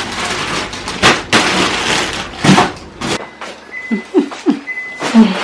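Rustling and knocking of packaging and groceries being handled for about three seconds. Then it goes quieter, with a short, high, steady beep repeating about once a second, typical of an appliance alert, and a few brief low sounds.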